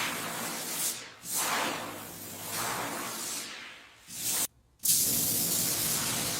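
A loud spraying hiss that comes in several swelling surges, cutting out abruptly for a moment about two-thirds of the way through before starting again.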